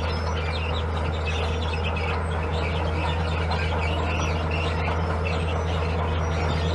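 Heavy construction machine's diesel engine running steadily with a low, even drone, with faint high chirps scattered over it.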